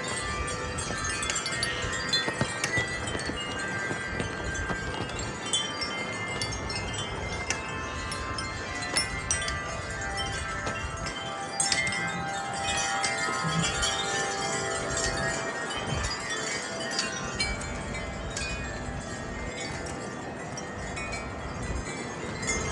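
Wind chimes ringing without pause as gusty wind knocks them, many overlapping tones with frequent light strikes, over a low wind rumble.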